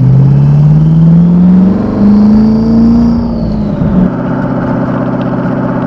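Twin-turbocharged Ford GT V8 (Hennessey GT1000 conversion) pulling under throttle, its pitch rising, with a short dip at a gear change about two seconds in. The revs fall away as the throttle is lifted, and the engine settles to a steady, lower cruise. A faint high whistle rises and falls with the engine.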